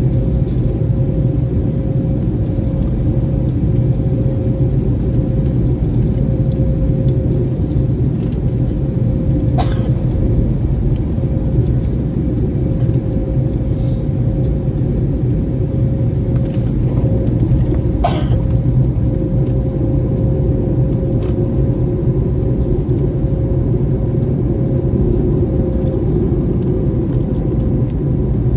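Steady cabin rumble inside an Airbus A321neo airliner, with a steady hum running through it. Two sharp clicks stand out, about ten and eighteen seconds in.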